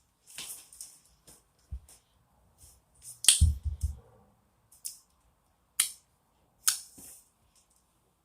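Homemade slime squeezed and poked by hand, giving scattered sharp wet clicks and pops, with a louder squelching cluster about three and a half seconds in.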